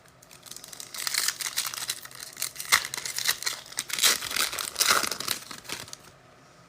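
Foil trading card pack wrapper being torn open and crinkled by hand, in an irregular run of crackles for several seconds.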